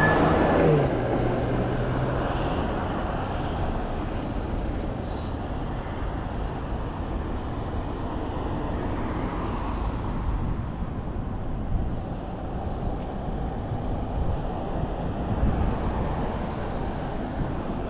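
Steady road and tyre noise from a car driving along a highway. About a second in, a passing vehicle's sound drops in pitch as it goes by.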